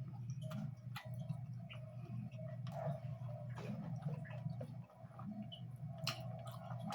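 Close-miked chewing and mouth sounds of a person eating pork curry with rice: wet smacks and scattered sharp clicks. A steady low hum runs underneath.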